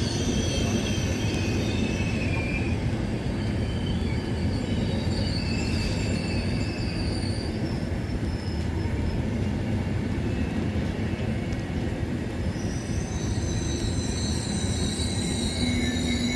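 A train moving through a station platform: a steady low rumble with high-pitched metallic squeals from the wheels or brakes, sounding at the start and again from about three-quarters of the way through.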